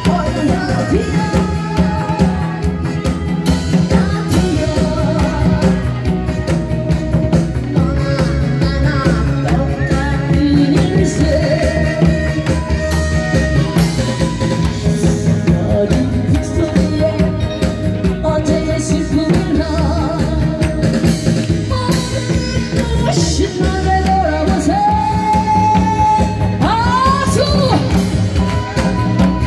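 A singer performing a song through a PA over an amplified backing track with a steady drum and bass beat.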